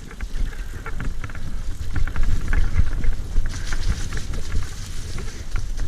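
Mountain bike riding over a rough, rooty dirt trail: a heavy low rumble with rapid rattling clicks, loudest in the middle.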